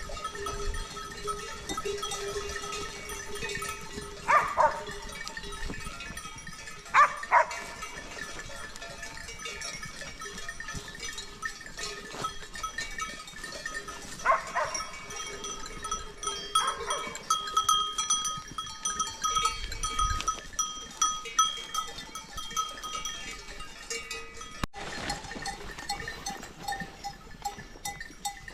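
Bells on grazing livestock ringing steadily, with several louder clanks about four, seven and fourteen seconds in.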